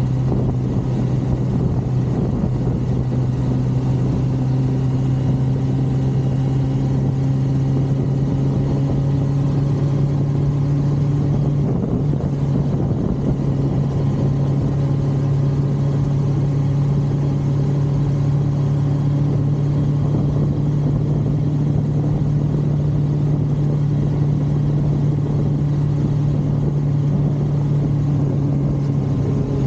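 1982 Suzuki GS550L's air-cooled inline-four engine running steadily under way, its pitch shifting slightly about twelve seconds in.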